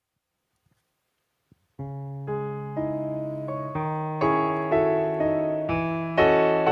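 Piano introduction to a song: after near silence with a couple of faint clicks, sustained chords begin about two seconds in, with a new note or chord struck roughly every half second and growing louder.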